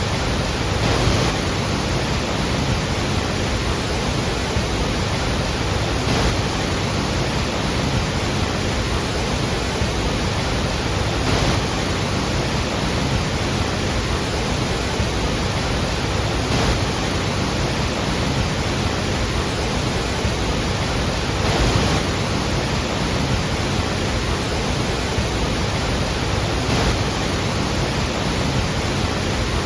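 Iguazú Falls pouring: a loud, steady rush of falling water, swelling slightly about every five seconds.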